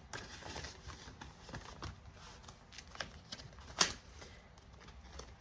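Quiet handling of paper cash and binder pages: faint rustles and small clicks, with one sharper click nearly four seconds in.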